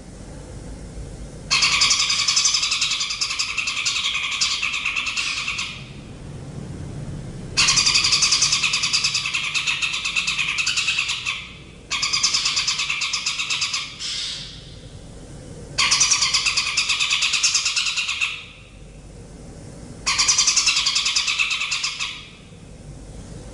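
A songbird repeating rapid, buzzy trilled phrases, each about two to four seconds long, about five in all with short pauses between. A faint low rumble runs underneath.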